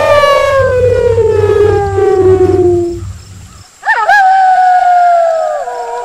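Wolf howling: a long howl slides steadily down in pitch and fades out about halfway through. After a short gap a second howl starts with a quick upward swoop and holds a steady pitch, stepping down a little near the end.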